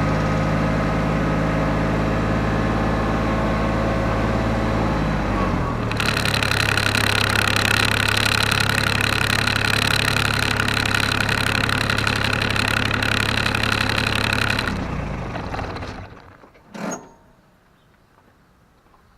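Diesel engine of a piece of farm machinery running, slowing to a lower speed about five seconds in, with a loud steady high whine over it for the next nine seconds. The engine then shuts down and winds to a stop, followed by a single knock and quiet.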